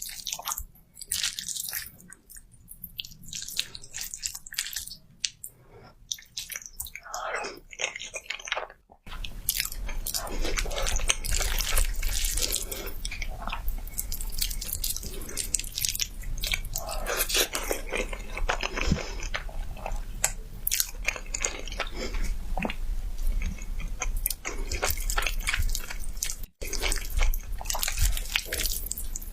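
Close-up eating sounds: biting and chewing, with crunching and wet clicking. The sound changes abruptly about nine seconds in and breaks off briefly near the end.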